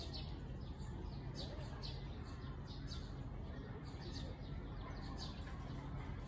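Small birds chirping in quick repeated series of short high notes, over a steady low background hum.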